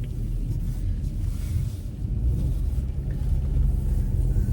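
Low steady rumble of a car's engine and tyres, heard inside the cabin while driving.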